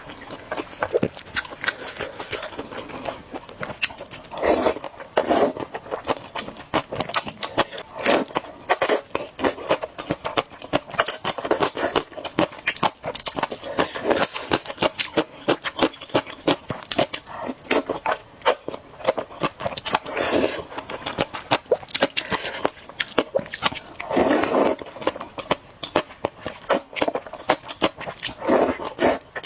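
Close-miked eating sounds: chewing and wet mouth clicks, with a louder noisy burst every few seconds, such as a slurp or a bite.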